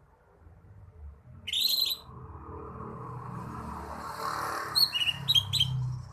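Cucak hijau (green leafbird) singing: a loud burst of high notes about one and a half seconds in, then a quick run of short, sharp chirps near the end.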